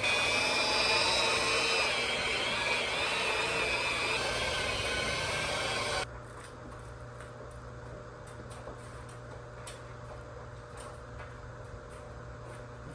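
Electric variable-speed polisher buffing an oxidized headlight lens with heavy-cut compound; its motor whine wavers in pitch under load. It stops abruptly about six seconds in, leaving a low hum and a few faint ticks.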